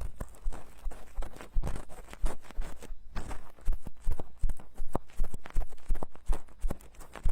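Ear-cleaning tools scraping and picking inside silicone binaural microphone ears, close and loud: a dense, irregular run of crackly clicks and short scratches.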